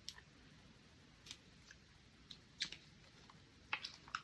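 Faint, scattered small clicks and taps, about seven of them, several close together near the end: paint supplies being handled at the table while getting a dropper bottle of watercolor ready to dispense drops.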